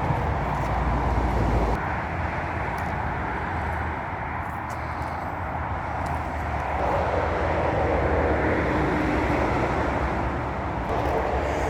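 Continuous motorway traffic noise: a steady rush of tyres and engines with no single vehicle standing out.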